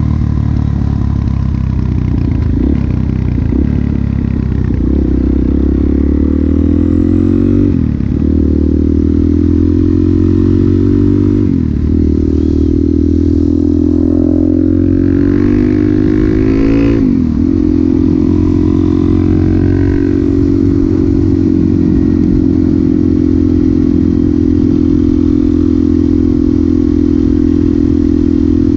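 Suzuki DR-Z400SM's single-cylinder four-stroke engine through a Yoshimura exhaust, pulling up through the gears: the engine note climbs, dips briefly at each shift, and climbs again, then settles at a steady pitch for the second half as the bike cruises.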